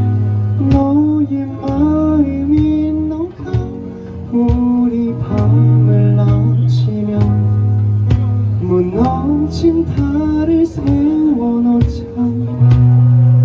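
Small live band playing a song: strummed acoustic guitar over bass notes and cajon strokes, with a melodic lead line gliding in pitch above.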